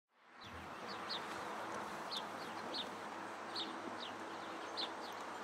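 Bird chirping repeatedly, short high notes that drop in pitch, about two a second, over a steady background hiss. The sound fades in from silence at the start.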